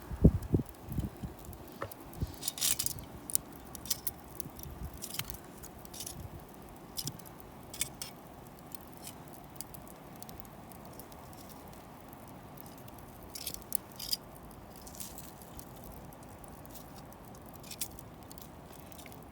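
Wood fire crackling in a homemade barbecue stove, with irregular sharp pops and snaps. There are a few low thuds at the very start.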